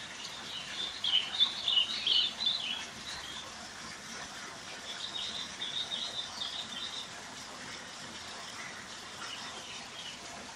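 Bird twittering in two short runs of quick, high chirps, one about a second in and another around five seconds in, over a steady background hiss.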